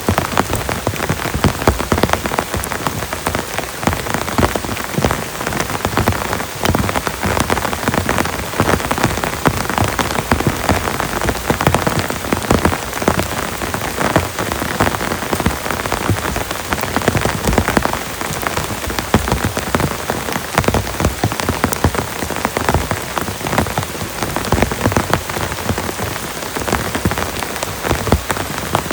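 Heavy rain falling steadily, with a dense patter of individual drops hitting a close surface.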